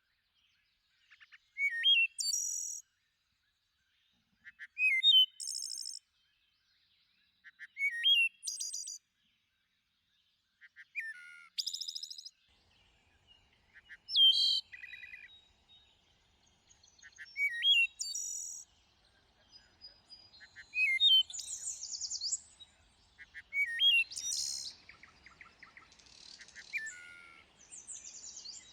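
A thrush singing: short fluted phrases about every three seconds, each opening with a few soft low notes and a rising whistle and ending in a high, trilling flourish. From about twenty seconds in the phrases come closer together and overlap with other bird song.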